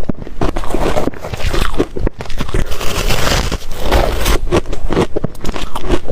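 Ice being bitten and chewed: rapid, irregular crunching.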